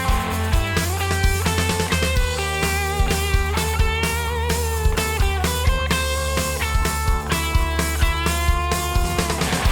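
Electric guitar played through a Mythos Golden Fleece one-knob fuzz pedal, playing sustained fuzzed notes with vibrato over drums. The drums hit at a regular beat under a steady low drone.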